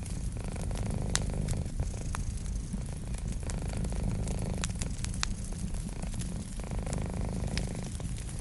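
A cat purring steadily in a low rumble, with a wood fire crackling and giving sharp snaps, a few louder than the rest.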